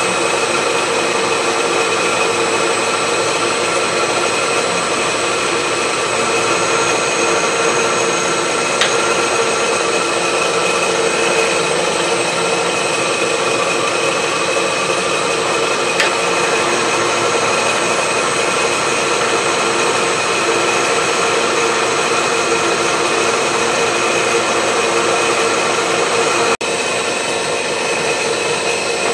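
Milling machine running steadily, a 3/4 inch slot drill taking a light clean-up pass around a steel wood chipper blade, heard as a steady whine of several tones over a hiss. A brief dip and click comes near the end, after which the machine runs slightly quieter.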